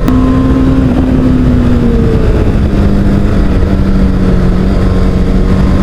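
Motorcycle engine running at a steady cruise, its pitch easing down a step about two seconds in and then holding, under a heavy low rush of riding noise.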